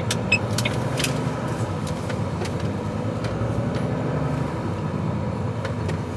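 Volvo HGV tractor unit's diesel engine running steadily at low speed while the truck manoeuvres, with light clicks and rattles over the hum.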